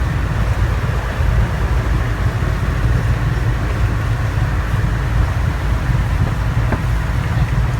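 River boat's engine running steadily: a loud, even low drone that does not change.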